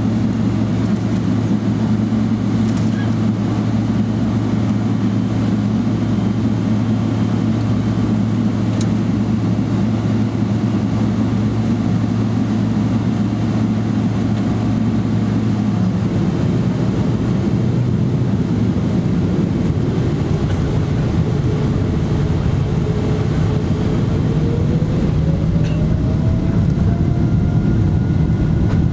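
Boeing 777-300ER's GE90 engines heard from inside the cabin: a steady low drone, then a rising whine from about two-thirds in as the engines spool up for takeoff, with the noise growing slightly louder near the end.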